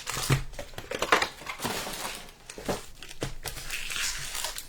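Foil trading-card pack wrappers crinkling and cards being handled: irregular rustles with light clicks.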